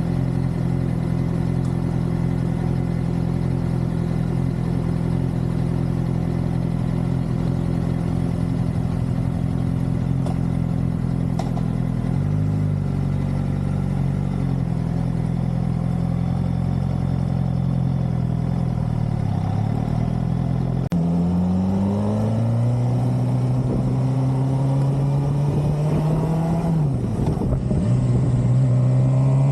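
2013 Suzuki GSX-R600's inline-four engine running at a steady speed for most of the stretch, then, about two-thirds in, revving up with rising pitch, dropping briefly as it shifts gear near the end and climbing again.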